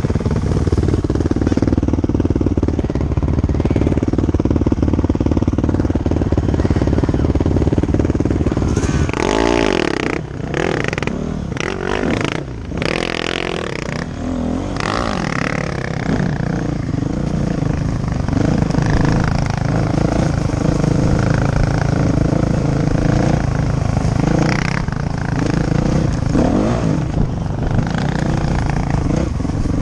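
Dirt bike engine running steadily, then revving up and down with a few brief throttle cuts around the middle, and running on with changing revs.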